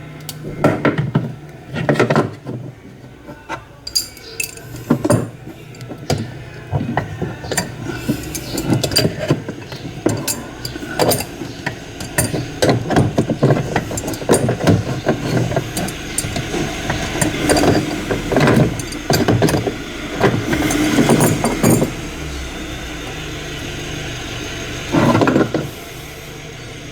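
Hand tools clinking and knocking on a washing machine's metal motor mount as the motor's adjusting screw is worked loose, many irregular taps and rattles.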